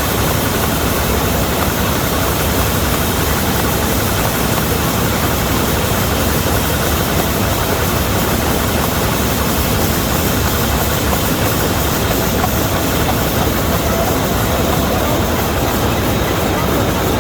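Old Vistula KZB-3B combine harvester running steadily while mowing grain: engine and machinery making a dense, even noise.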